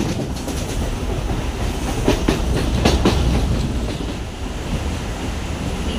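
A moving local train running along the track: a steady rumble from the coach, with the wheels clacking over rail joints, including a few sharp clacks about two to three seconds in.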